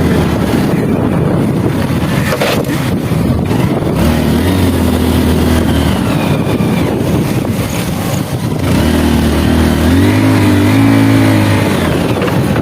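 Motorbike engine running under way, with heavy wind and road noise, its pitch shifting several times as it speeds up and changes gear.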